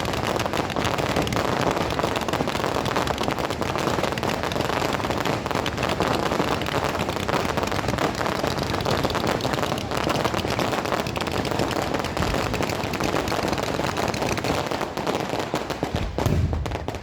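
Firecrackers going off in a long, rapid, continuous run of sharp pops and bangs, dying away near the end.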